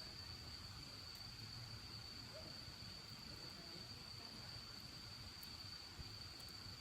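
Crickets trilling, one steady, unbroken high-pitched chirring over a faint low rumble, with a few faint ticks.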